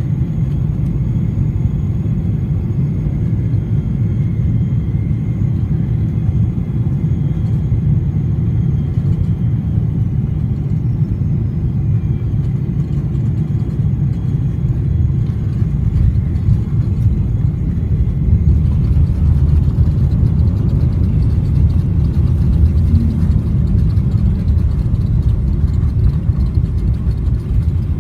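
Cabin noise of a Boeing 777-300ER during landing: a steady low rumble of the engines and the airliner rolling on the runway, growing somewhat louder about two-thirds of the way through.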